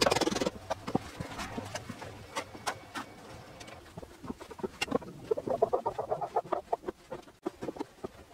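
A short loud noisy clatter at the very start, then scattered sharp knocks and clicks, with a bird calling in a rapid pulsing series from about five to seven seconds in.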